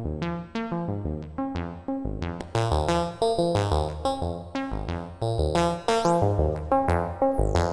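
Sequenced synthesizer bass line run through a Befaco FX Boy effects module: a quick run of short, pitched notes. Near the end, high gliding tones bend downward.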